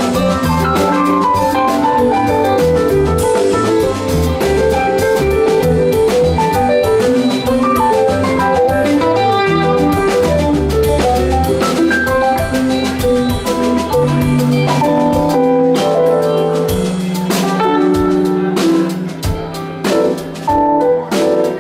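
Live rock band playing an instrumental passage: electric guitars, bass and drum kit, with quick runs of pitched notes over a steady bass line. The playing turns choppier near the end.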